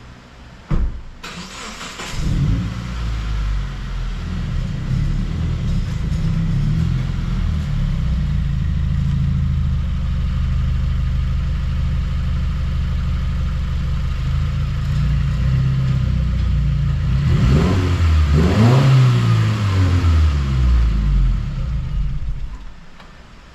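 A car engine is started about two seconds in after a short click and settles into a steady idle. It is revved up and down a few times near the end, then switched off.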